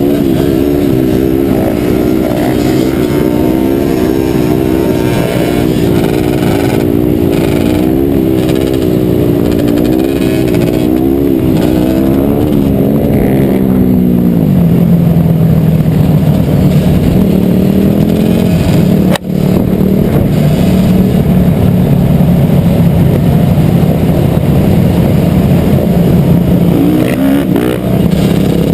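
Dirt bike engine running loudly, its pitch wavering up and down with the throttle, then dropping about halfway through to a steadier, lower drone. There is a momentary dropout a few seconds later.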